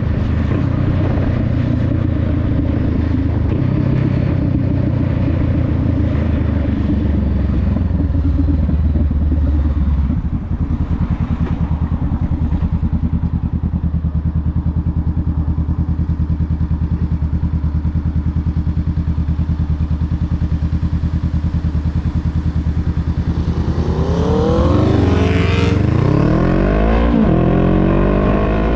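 Honda Rebel 500's parallel-twin engine running steadily under way, with a short drop in level about ten seconds in. Near the end it accelerates, the pitch climbing and falling back several times as it shifts up through the gears.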